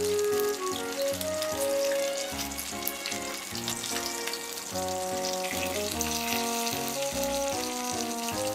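Pork belly rolls sizzling and crackling in hot oil in a frying pan, with a light background melody playing over it.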